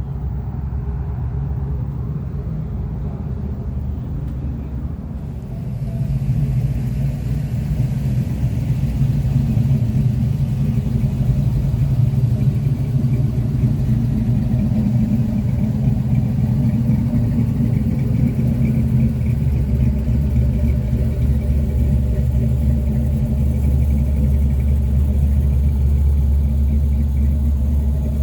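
A truck engine running with a steady low rumble. It grows louder about six seconds in, and the deep bass strengthens about two-thirds of the way through.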